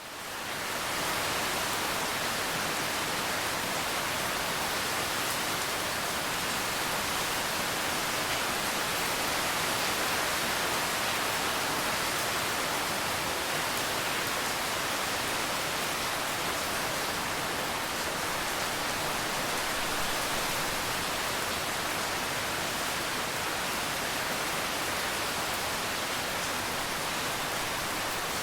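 Steady rain, an even hiss that fades in over the first second and then holds level.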